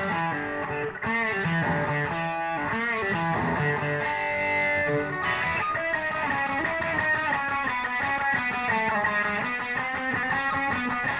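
Electric guitar playing rock riffs, with notes bent in pitch about a second in and again near three seconds.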